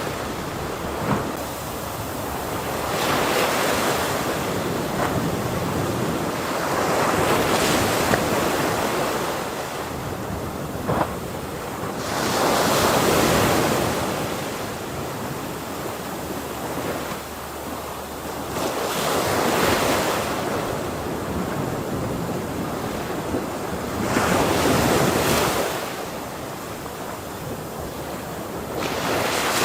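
Ocean waves breaking on a shore: a continuous wash of surf that swells as each wave crashes, about every five seconds, and ebbs between.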